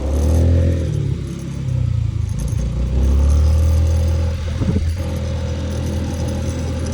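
Motor scooter running on the move, a steady engine note over a heavy low rumble, swelling louder twice as the throttle opens.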